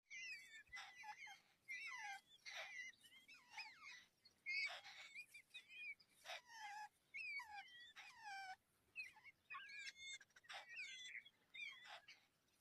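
Baby bird chirping: a string of short, high, warbling calls whose pitch slides up and down, one after another about every second.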